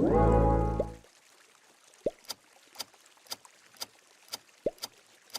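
A loud synthesized jingle rising in pitch ends about a second in; it is the logo sound revealed as Spotify's. It is followed by a quiz countdown ticking like a clock about twice a second, with a water-drop plop twice.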